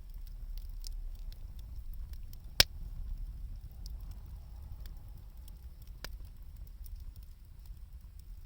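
Wood campfire burning, with scattered light crackles and a sharp pop about two and a half seconds in and another about six seconds in.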